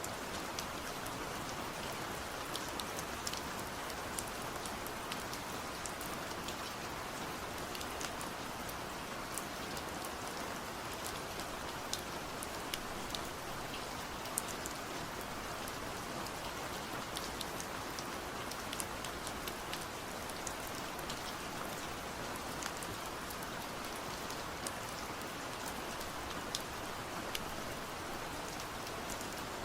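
Steady rain falling, an even hiss dotted with the sharp ticks of individual drops striking a surface.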